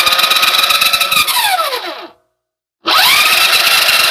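RadioShack Rock Runner R/C truck's electric drive motor and gears whining under throttle: the pitch rises, holds steady, then falls away as it is let off and stops about two seconds in. The throttle is opened again just before three seconds in, giving another rising whine that holds steady.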